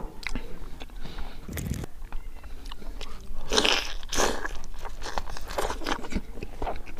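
A person biting into and chewing crispy pork and yam, with many short crunches. The loudest crunching comes about three and a half seconds in.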